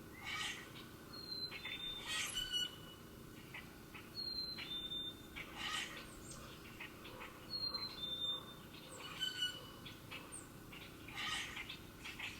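Songbirds singing: one bird repeats a clear two-note whistle, the second note lower, about every three seconds, while other birds chirp in between.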